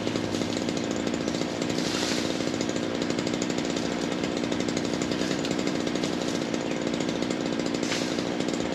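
Ryobi 37cc two-stroke gas chainsaw running at a steady speed, its engine firing in a fast even pulse.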